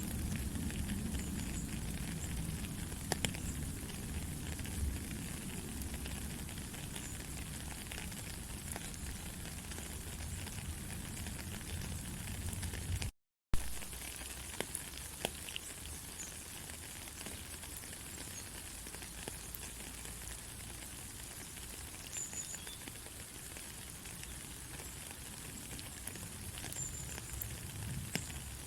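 Steady rain hiss with scattered ticks of drops. About thirteen seconds in, it cuts out for a split second and comes back with a sharp click.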